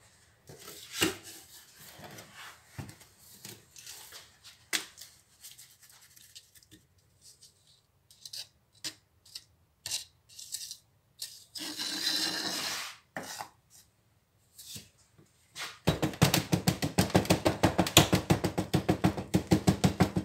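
Wet castable refractory being worked into a mould by hand: scattered scraping and rubbing strokes, with a longer scrape about twelve seconds in. Near the end comes a rapid, steady run of knocks, about nine a second, as the mould is rapped to settle the mix and drive out air bubbles.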